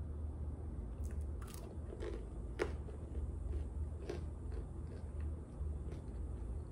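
A person chewing and biting food close to the microphone, with irregular crunchy clicks and mouth smacks over a steady low hum.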